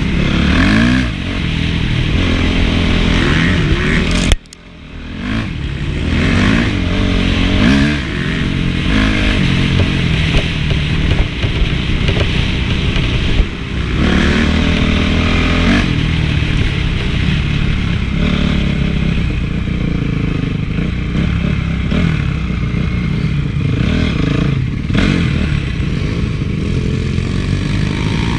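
Honda CRF450's four-stroke single-cylinder engine revving up and down over and over as the motocross bike is ridden. About four seconds in there is a sharp loud hit, then the sound drops away abruptly and builds back up.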